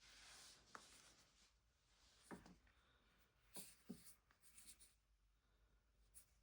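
Faint rubbing, then a handful of light clicks from small objects being handled, as when a cable and SSD are plugged in. No steady fan noise stands out.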